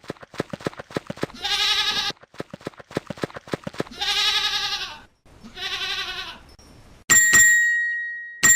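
Donkey braying: rapid wheezing pulses on the in-breath alternating with longer pitched honks on the out-breath, three honks in all. Near the end, two bright ringing chime strikes about a second and a half apart.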